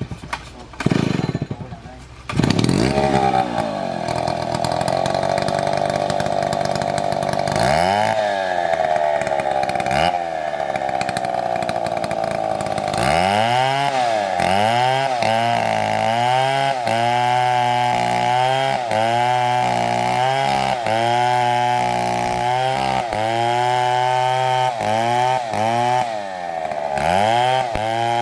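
Two-stroke STIHL chainsaw running, its engine speed rising and falling over and over, more quickly in the second half, about once a second. A few loud knocks come just before the saw's sound takes over, about two seconds in.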